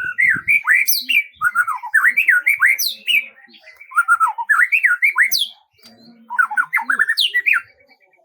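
A songbird singing in quick phrases of rapid chirps that sweep up and down in pitch. There are four phrases, with short pauses between them.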